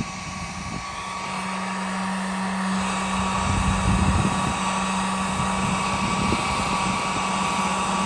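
Electric heat gun running on its low setting: a steady blowing hiss with a low hum and a higher whine, growing a little louder over the first few seconds.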